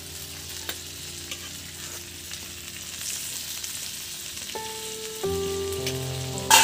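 Pieces of chicken breast frying in a pan with a steady sizzle and a few small clicks, shortly after being turned over. A sharp knock comes right at the end.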